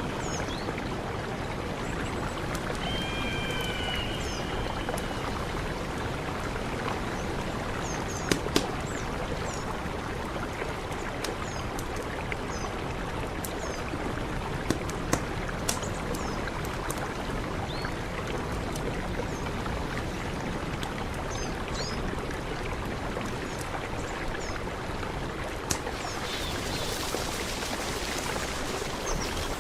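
Mountain river rushing steadily, with a few short high chirps and several sharp clicks or splashes standing out over the water.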